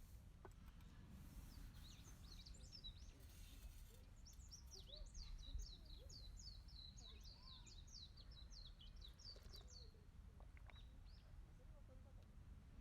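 Songbirds calling faintly, with a quick run of short, high, repeated chirps in the middle, over a faint low background rumble.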